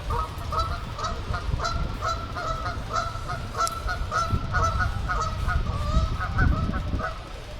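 Geese honking in a rapid, continuous series of calls that stops near the end, over a low rumble.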